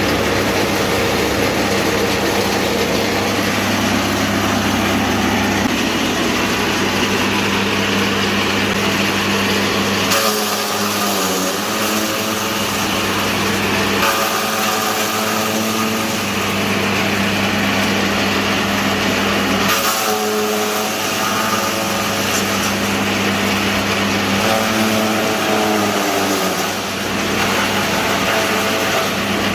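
Forage rubbing machine (straw crusher) driven by a 4.5 kW 220 V single-phase electric motor running at speed, a steady motor hum under the noise of its knife rotor shredding corn stalks. About 10, 14 and 20 seconds in the noise surges and the pitch sags and recovers as the rotor takes on load from the stalks.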